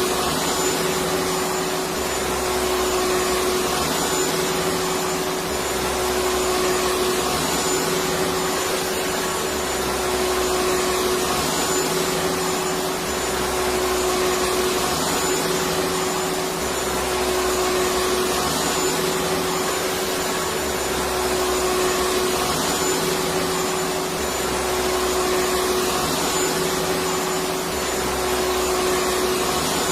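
Electric vacuum cleaner running continuously: a dense rushing noise of air with a steady motor hum and a thin high whine. The low end swells and fades gently every three to four seconds.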